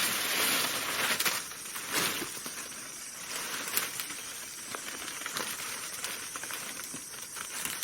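Rustling and crackling of leaves and branches being handled, loudest in the first second or so, with several sharp snaps or clicks scattered through the rest.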